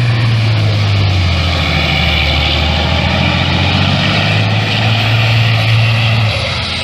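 Trial truck's diesel engine running loud under load, its pitch dropping about a second and a half in, rising again later and falling away near the end.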